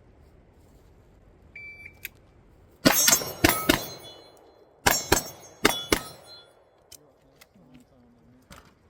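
A shot timer's start beep, then pistol shots in two quick strings of about four, with steel targets ringing after the hits.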